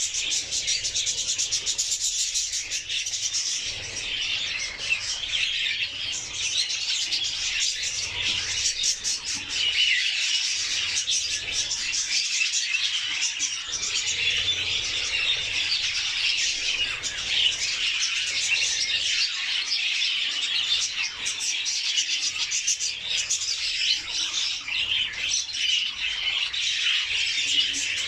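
Budgerigars warbling and chattering without a break: a dense stream of rapid chirps, clicks and squeaky notes.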